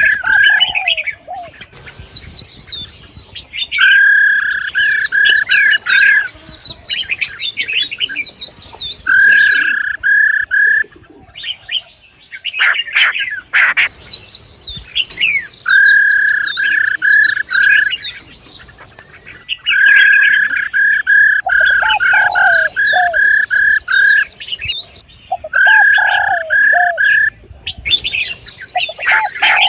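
Female songbird calls: bursts of quick repeated chirps, each burst lasting a second or two with short gaps between, over rapid high twittering.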